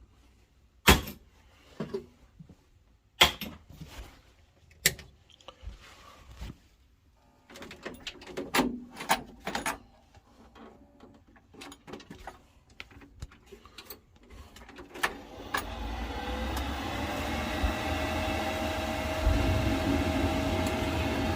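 Sharp clicks and knocks of parts being handled and clipped into a Worcester Bosch combi boiler. Then, about fifteen seconds in, the boiler starts up and keeps running with a steady fan noise and a faint steady tone that rises slightly. This is the boiler firing up after its faulty flue overheat stat was replaced, no longer locking out.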